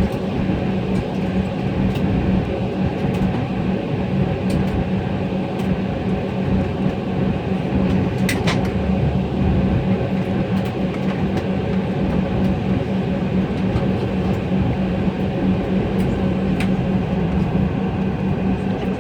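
Steady cabin noise inside an Embraer E175 airliner on the ground after landing, with a constant low hum, a few faint clicks and one brief sharper sound about eight seconds in.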